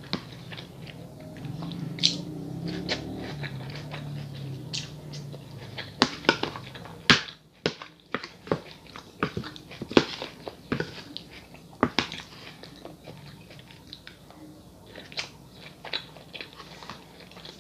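Close-up mouth sounds of chewing a mouthful of rice, beans and salad, with sharp clicks and taps of a metal spoon against the bowl scattered through, loudest around the middle.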